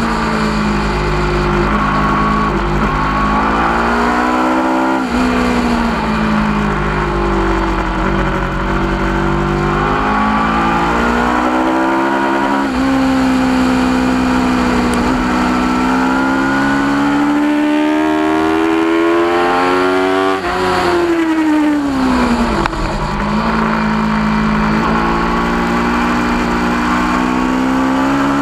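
2010 Aprilia RSV4's V4 engine at full race pace, heard from the bike itself. The revs climb and fall with the corners. The pitch drops suddenly at a gear change about five seconds in, rises to a peak about twenty seconds in, then falls away as the bike slows, and climbs again near the end.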